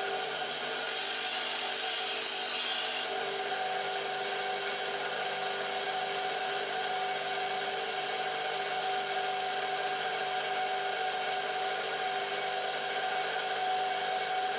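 Bench grinder motor running steadily with an even grinding hiss as a skew chisel's bevel is ground on the wheel.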